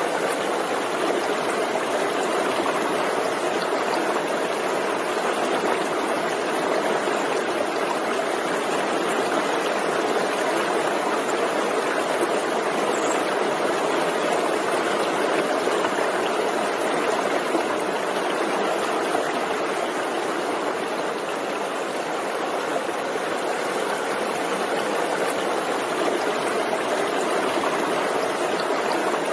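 Forest stream flowing over rocks: a steady, continuous rush of running water with no breaks or distinct splashes.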